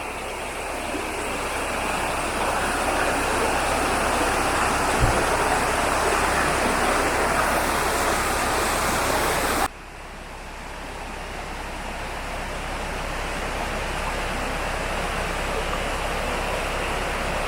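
Steady rushing of flowing water. It drops sharply about ten seconds in and then slowly builds back.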